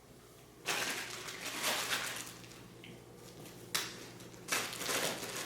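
Plastic bag crinkling and rustling in several bursts as the steam mop's accessory tools are packed away, with a couple of sharp knocks from the tools being handled.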